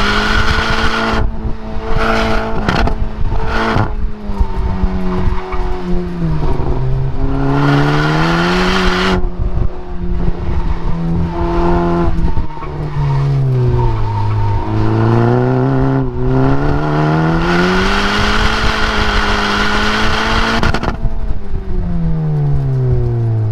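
The 2017 Hyundai Elantra Sport's turbocharged 1.6-litre four-cylinder, heard from inside the cabin under hard driving. The revs climb and drop repeatedly, with tyres squealing at times.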